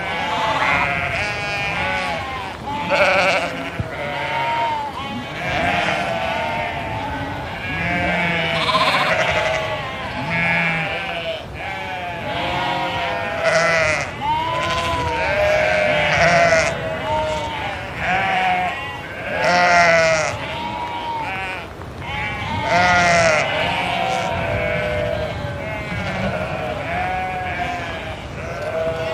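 A flock of sheep bleating continually, many calls overlapping one another, each with a quavering, wavering tone.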